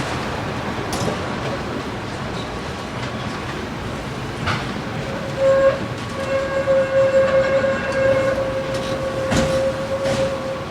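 Tram running on rails: a steady rolling rumble with a few sharp clicks. About halfway through, a steady high tone comes in and holds for about five seconds before stopping.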